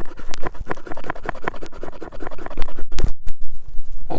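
A striker scraped hard and fast down a fire steel rod, about five strokes a second, with a short pause about three seconds in: striking sparks onto tinder to light a fire.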